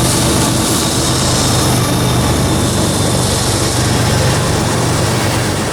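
CSX intermodal freight train passing close by: a loud, steady rumble and clatter of cars rolling over the rails, with a low engine hum underneath.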